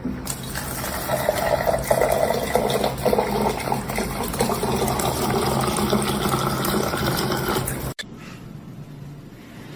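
Steady rush of running water with a low hum underneath, cutting off abruptly about eight seconds in, after which only a faint noisy background remains.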